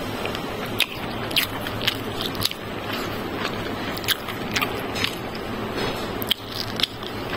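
Close-miked eating: a person chewing a mouthful of biryani with wet mouth clicks and smacks, about one or two a second, over a steady background hiss.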